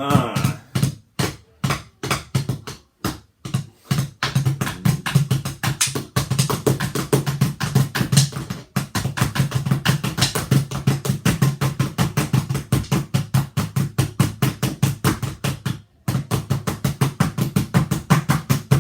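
Drum solo: a drum struck by hand with sticks, a few spaced hits at first, then fast rapid-fire strikes about four seconds in that run on with a brief break near the end.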